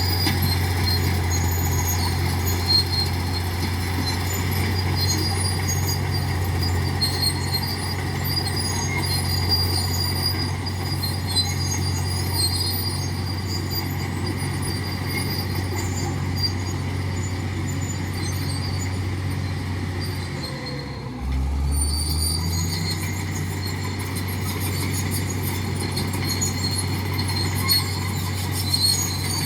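Diesel engine of a heavy earthmoving machine running steadily. About two-thirds of the way through, its note briefly drops lower for about a second, then picks back up.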